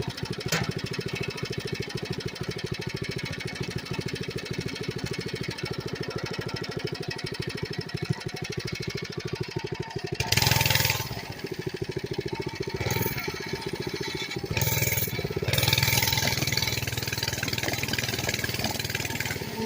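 Coleman CC100X mini bike's small single-cylinder engine running with a fast, even putter, then revved up several times from about halfway through, each rev louder and separated by short drops.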